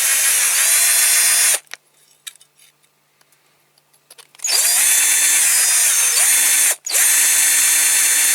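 Small electric drill drilling out a rivet in a diecast toy car's base, its motor pitch dipping at times. It stops about a second and a half in, with a few small clicks in the gap. It starts again about halfway through, cuts out very briefly, and runs on.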